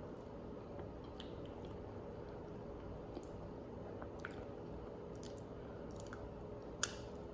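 A person chewing food close to the microphone: small wet clicks and smacks scattered through, with one sharp click near the end. A steady low hum lies underneath.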